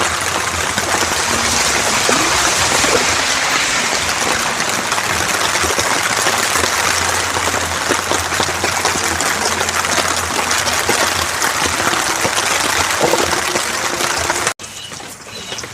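Heavy rain falling, a loud steady hiss that cuts off suddenly near the end.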